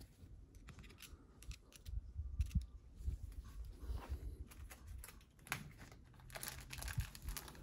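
Small parts being handled by hand: scattered light clicks and taps with crinkling and tearing of plastic packaging, as the small seals and O-rings from a valve block rebuild kit are sorted out.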